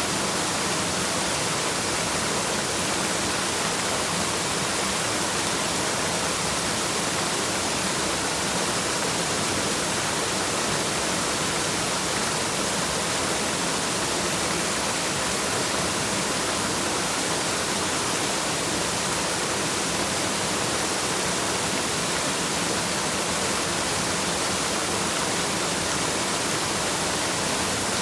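Waterfall rushing steadily: an even, unchanging hiss of falling water with no separate sounds in it.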